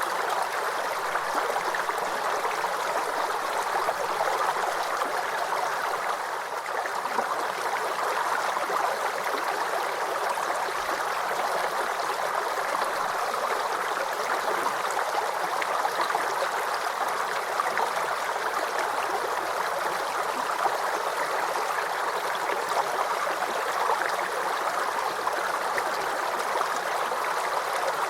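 Small stream babbling and gurgling steadily over stones, with a bright trickling texture.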